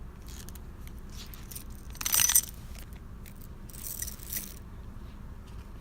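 Handling of a metal dog tag on its chain: three short bouts of scraping and rattling, the loudest about two seconds in.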